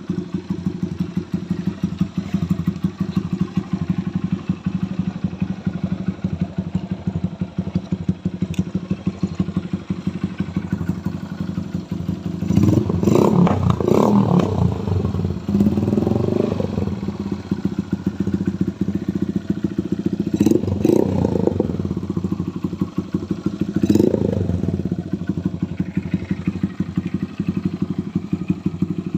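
Custom Honda motorcycle engine idling with a steady, fast exhaust pulse, blipped up in revs a few times in the second half.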